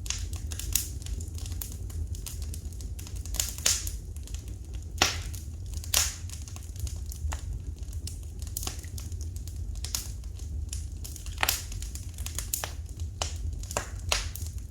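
Wood fire crackling in a fireplace: irregular sharp pops and snaps, some single and some in quick clusters, over a steady low rumble.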